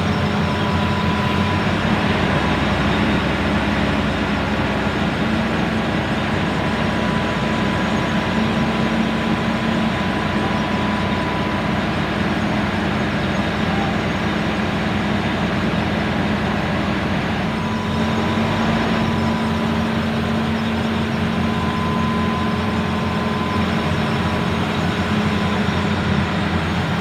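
A heavy diesel engine running steadily under load, a constant loud drone with a thin whine that comes and goes; the low rumble shifts about two seconds in and again past the middle.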